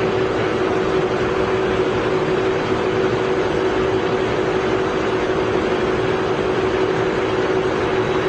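Poreba TCG 160 engine lathe running steadily under power. The geared headstock gives a constant whine at one pitch over even mechanical noise.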